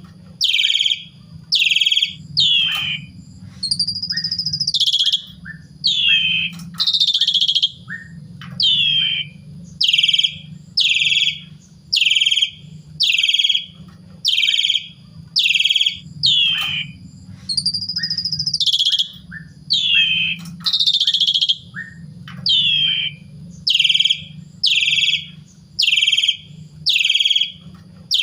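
Asian pied starling singing: loud, harsh notes, each falling sharply in pitch, about one a second, twice broken by a longer warbled phrase. The same sequence comes round again partway through, over a low hum.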